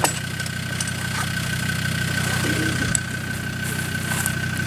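Off-road 4x4's engine idling steadily, with a thin steady high-pitched tone running alongside it.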